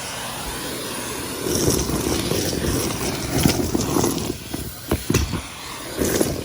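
Henry vacuum cleaner running and sucking up debris, louder from about a second and a half in, with several sharp knocks in the second half.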